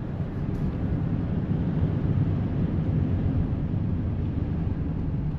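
A 1995 Chevy S10's 4.3-litre V6 and road noise while the truck is driven at a steady pace: a steady low rumble with no revving.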